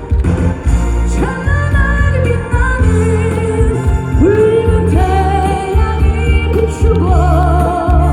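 A trot song performed live: a singer's long held notes with vibrato over an amplified backing track with a steady bass beat.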